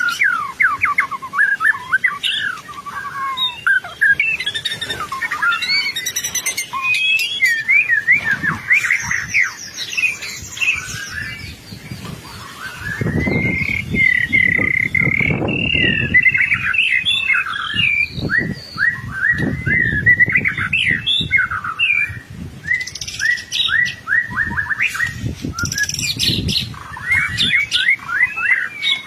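White-rumped shama (murai batu) in full song: a continuous, rapid run of varied whistles, trills and chattering phrases, with a low rumble underneath at times.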